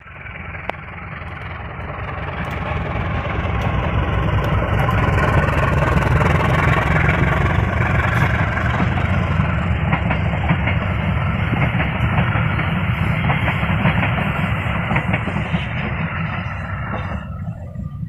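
Passenger train coaches rolling past at speed: a steady rumble and rattle of wheels on the rails that builds over the first few seconds, holds, then falls away near the end.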